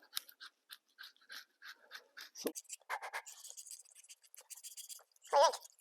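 Hand scraper scraping old gasket material off the sealing surfaces of a small-block Chevy 350, in short quick strokes about three a second. Near the end comes a brief wavering squeak, the loudest sound here.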